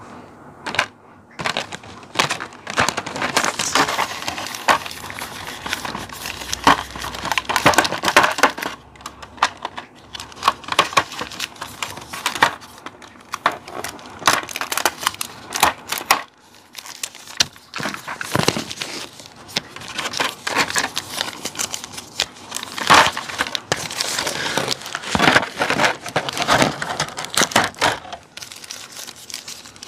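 Clear plastic packaging, blister trays and a plastic bag, crinkling and crackling as it is handled, in irregular runs of crackles with a few short pauses.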